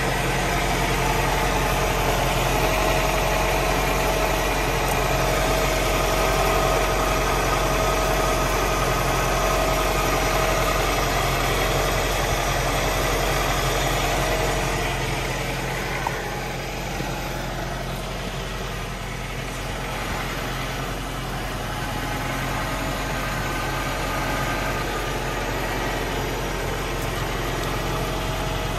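1993 Saab 900 Turbo's turbocharged four-cylinder engine idling steadily, heard from underneath the car. It grows a little quieter about halfway through, then holds steady again.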